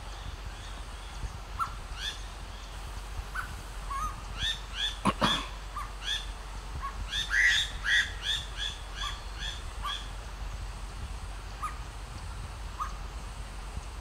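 Striated laughingthrush calling: a run of short, upward-slurred whistled notes, several a second, loudest about five and eight seconds in and tailing off after about ten seconds. A single sharp knock comes about five seconds in, over a steady low rumble.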